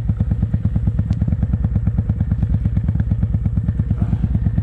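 Motorcycle engine running steadily at low revs, its exhaust pulsing evenly about ten times a second with no change in speed.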